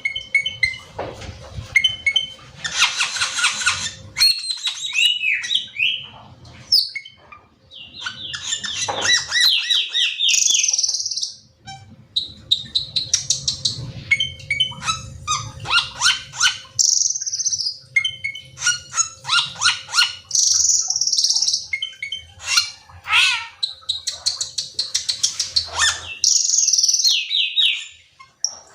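A cucak keling songbird singing, a long run of varied sharp chirps, quick trills and falling whistled note runs with short pauses between phrases, over a faint steady hum.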